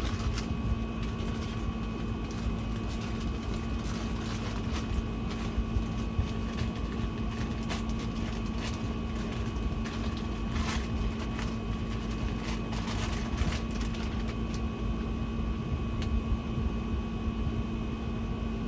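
A steady mechanical hum, with fixed pitches, runs throughout under scattered rustling and light knocks of a bed sheet being handled; the rustling dies away about fourteen seconds in.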